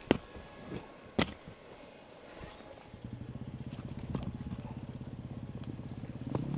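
Two sharp knocks, then about three seconds in an enduro motorcycle engine comes in and runs steadily with an even rapid pulse.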